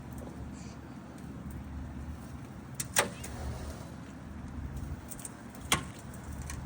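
Two sharp knocks about three seconds apart, from a power wheelchair being unloaded from a pickup truck bed, over a steady low rumble.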